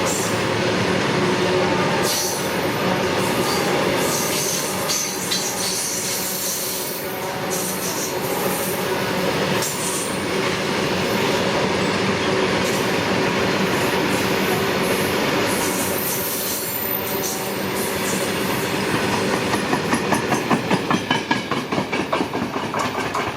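Loaded BCNHL covered freight wagons rolling past on the rails with a steady, dense rumble. Near the end the wheels beat out a rapid, regular clatter over the rail joints.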